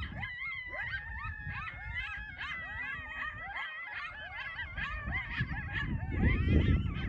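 A group of coyotes yipping and howling together in many overlapping, rising and falling calls, over a low rumble that grows louder near the end.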